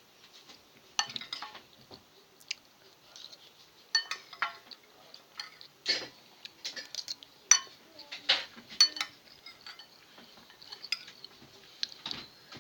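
Dishes and cutlery clinking and clattering in an irregular series of sharp knocks, several of them ringing briefly.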